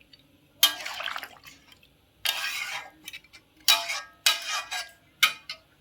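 Kitchen clatter: about five short bursts of pots or utensils being handled, with some splashing of water.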